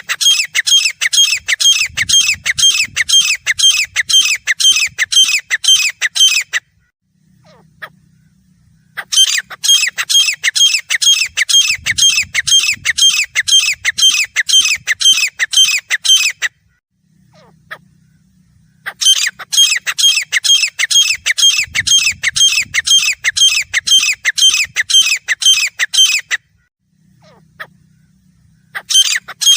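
Grey francolin calling: long bouts of rapid, loud, repeated shrill notes, about four a second, each bout lasting some seven seconds. The bouts are broken by short pauses of about two and a half seconds, three full bouts in all.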